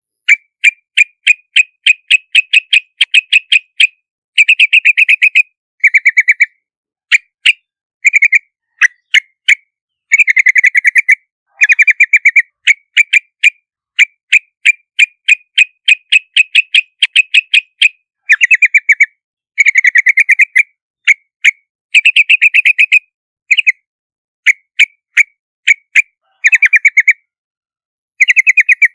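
Yellow-vented bulbul calling: runs of short, sharp, chattering notes, several a second, broken by brief pauses and fuller bursts, with no background noise between them.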